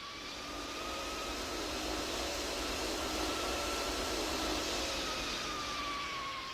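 An engine running with a steady roar and a high whine that rises a little in pitch and then settles back down.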